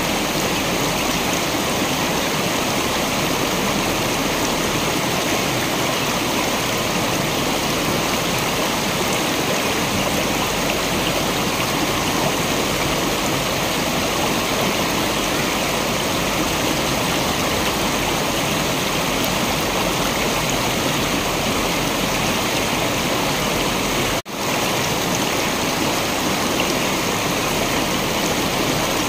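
Waterfall water rushing steadily, a dense even roar of falling water. About 24 seconds in it drops out for a split second, then comes straight back.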